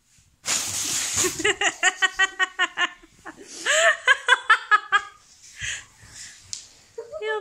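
A short hissing burst of noise, then a child laughing hard in quick repeated bursts, a second fit of laughter following a moment later.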